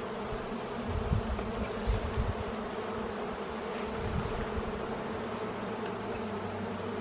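Honeybees buzzing in a steady drone around an open hive being inspected. A few low bumps come between about one and two and a half seconds in.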